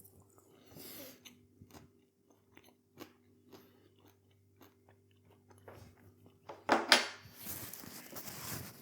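A person chewing a mouthful of meat-free burger, soft wet mouth clicks scattered through, with a louder noisy burst about seven seconds in. A faint steady hum sits underneath.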